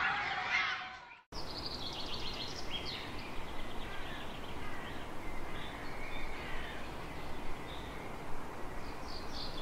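Children's voices at a playground fade out in the first second. After a sudden cut comes an outdoor ambience: a steady hiss with birds calling in short, repeated chirps.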